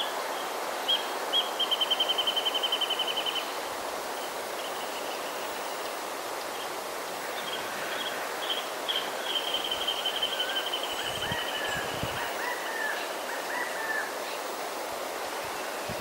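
A small songbird giving a rapid scolding chatter: a fast run of repeated high notes about a second and a half in, and a longer run near the middle, followed by scattered shorter call notes. Under it, a steady hiss of breeze.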